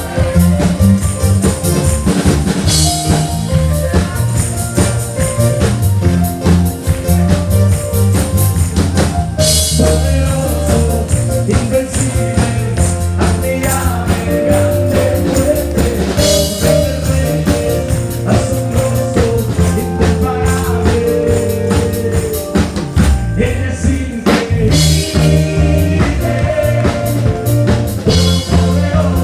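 Live band playing an upbeat song with drum kit, bass and tambourine, cymbal crashes now and then, and some singing.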